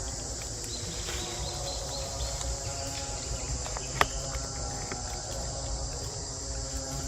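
Insects chirring steadily and high over a low outdoor rumble, with one sharp click about four seconds in.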